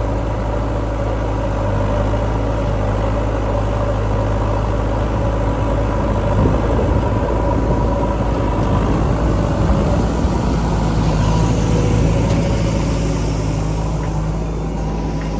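Heavy diesel engine running steadily, as earthmoving machinery works mud, with the engine note shifting about ten seconds in.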